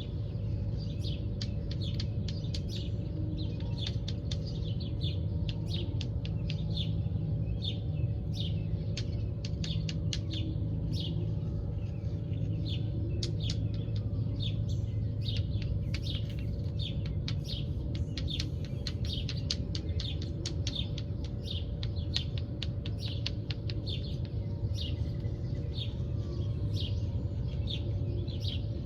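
Many small birds chirping in quick, overlapping short notes without a break, over a steady low hum with a faint constant tone.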